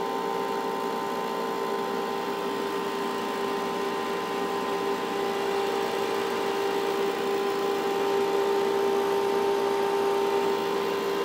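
Zeusminer Hurricane X2 ASIC miner running, its cooling fans giving a steady whir with a constant tone over it, growing slightly louder in the second half.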